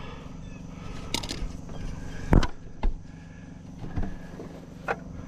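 A steady low engine hum, an engine idling, with a few scattered knocks and clicks; the sharpest knock comes about halfway through.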